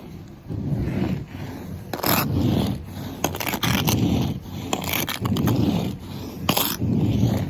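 Snow scraper dragged across a car's snow-covered surface in repeated strokes, about six in a row, with a sharp click at the start of two of them.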